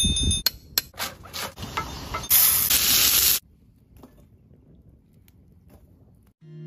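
Rubbing and scraping with scattered clicks, then a loud hiss lasting about a second, then near quiet; strummed guitar music starts near the end.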